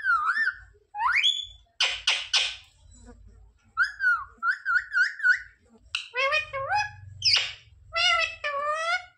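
Green parrot calling: a run of short whistled notes that slide up and down in pitch, broken by harsh screeches about two seconds in and again later.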